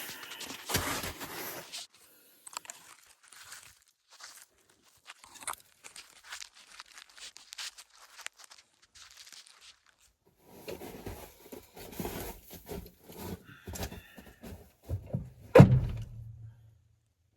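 Someone rummaging through tools: scattered clicks, clatter and rustling. About fifteen seconds in comes one loud thunk, followed by a brief low ringing.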